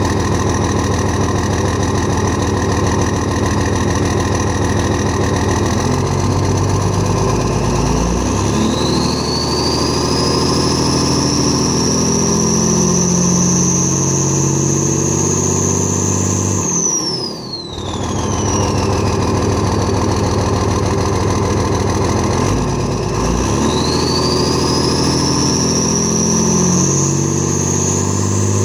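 P-pumped 24-valve 5.9 L Cummins inline-six diesel with an HE351CW turbo, running with engine speed twice brought up: each time a high turbo whistle climbs steeply and then holds, likened to a 6.0 Powerstroke's. About halfway through the revs drop and the whistle slides down, with a brief dip in level, before climbing again near the end.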